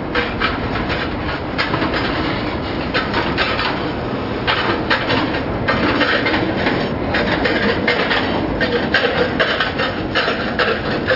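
Freight train rolling past close by: a steady rumble of steel wheels on the rails with a dense, irregular run of clacks and rattles from the passing cars.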